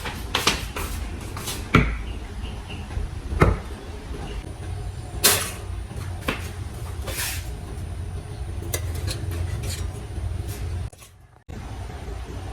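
Scattered knocks and clicks of kitchen things being handled, over a steady low rumble, with a brief drop-out near the end.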